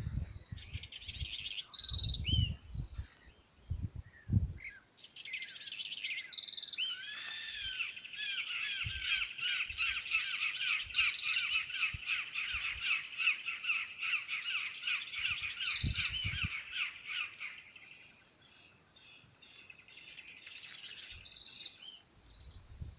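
Birds calling with harsh, rapid, repeated calls: short bursts at first, then a dense run that lasts about ten seconds, and another short burst near the end.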